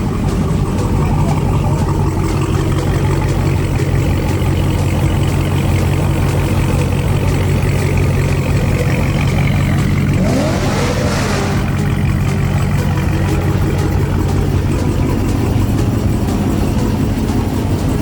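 Car engine running steadily, with a rising rev about ten seconds in.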